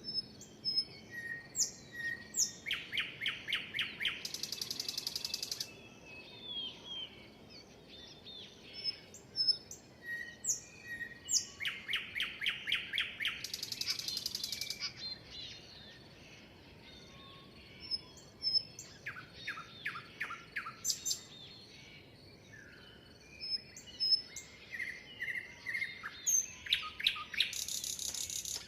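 Several birds chirping and singing. One bird repeats the same song four times: a run of about six quick notes followed by a buzzy, high trill.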